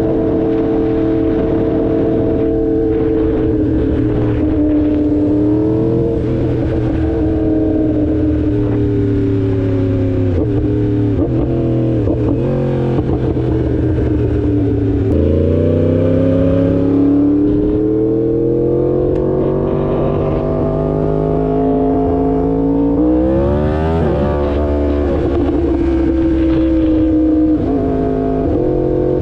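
2016 Yamaha R1's crossplane inline-four engine running under way, its pitch falling and rising with the throttle several times, with a sudden drop about halfway through and a quick steep climb about three-quarters through.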